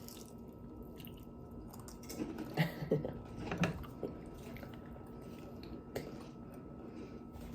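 A person biting into and chewing a fried steak egg roll, with a cluster of louder bites and chews about two to four seconds in.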